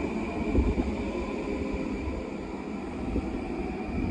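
Long Island Rail Road M9 electric multiple-unit train passing close by, its wheels rumbling on the rails with a steady high whine over the rumble.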